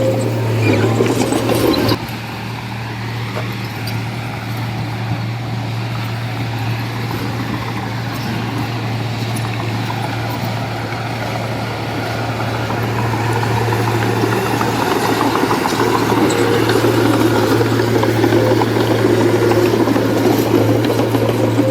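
Heavy construction machine's diesel engine running with a steady low drone. The sound changes abruptly about two seconds in, then grows louder over the second half as the engine works harder.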